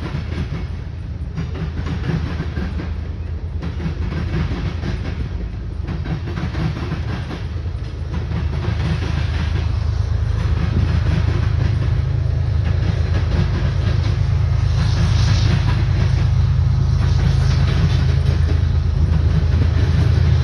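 Freight train rolling past, a steady low rumble with the clickety-clack of car wheels over the rail joints. The rumble grows louder about halfway through.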